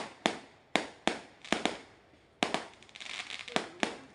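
Aerial fireworks bursting overhead: a string of sharp bangs, about nine in four seconds, each dying away quickly, with a stretch of crackling stars about three seconds in.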